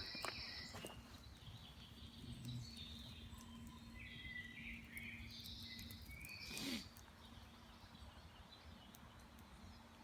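Quiet woodland ambience with faint birds chirping. A brief, louder sound comes about two-thirds of the way through.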